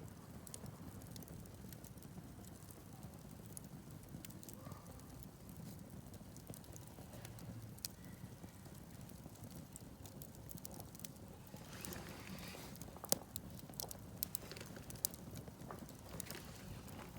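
Wood campfire crackling: scattered sharp pops over a low steady rush, the pops coming thicker in the second half, with a brief hissing flare about twelve seconds in.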